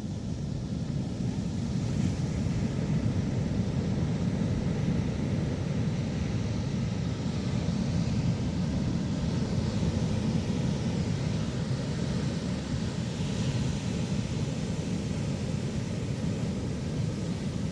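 Ocean surf washing onto a beach, a steady low rumble of waves.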